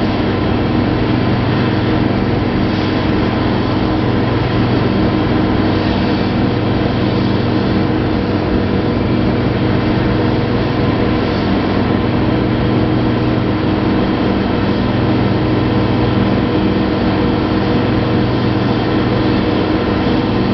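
Steady, loud drone of the SOFIA Boeing 747SP's engines and air systems, with several constant low hums and no change throughout.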